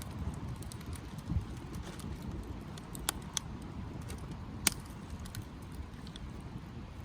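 Wood fire crackling, with irregular sharp pops, the loudest a little past the middle, over a low rumble of wind on the microphone.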